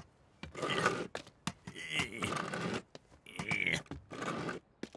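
A man's short mumbles and grunts mixed with scraping and tearing sounds, in several separate bursts.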